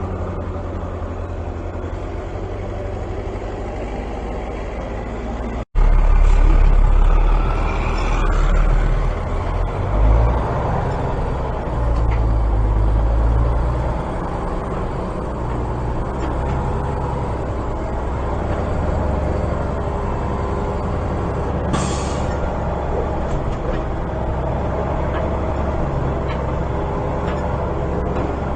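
A heavy vehicle's engine running steadily, louder after an abrupt break about six seconds in, with a short sharp hiss about three-quarters of the way through.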